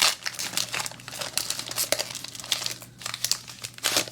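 Foil trading-card booster-pack wrapper crinkling as it is handled and opened, an irregular run of crackles that is loudest right at the start.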